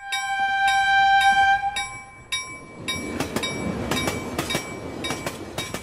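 Train sound effect: a multi-tone train horn sounds for about two seconds over regular ringing strikes, then a train rolls by with a rumble and a rhythmic clickety-clack of wheels.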